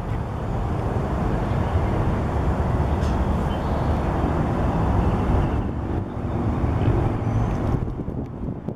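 Porsche 911 Carrera's flat-six engine running through its aftermarket Tubi exhaust, with outdoor road and wind noise. The sound swells about a second in and dips briefly twice near the end.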